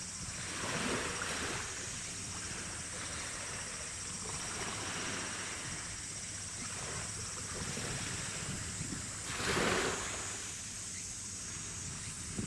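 Wind buffeting the microphone in gusts, the strongest about nine and a half seconds in, over a steady low hum.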